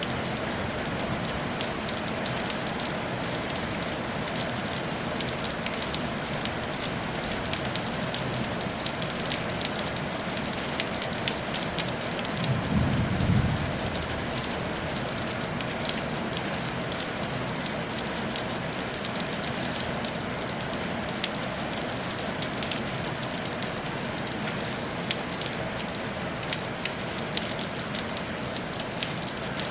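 Steady rain falling on a tile roof, a continuous hiss dotted with sharp individual drop ticks. A brief low rumble about twelve seconds in is the loudest moment.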